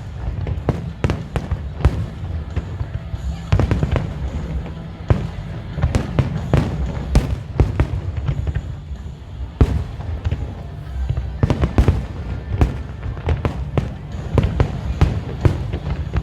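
Fireworks bursting in a rapid, irregular barrage of sharp bangs, often several a second, over a steady low rumble.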